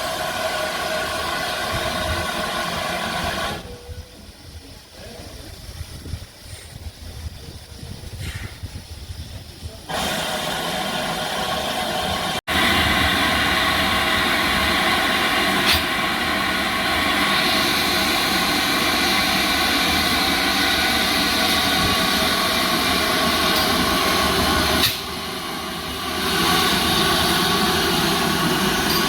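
Steam locomotive standing with steam hissing steadily, heard across several abruptly cut shots. The longest, loudest stretch of hiss runs from about twelve seconds in, dipping briefly near the end.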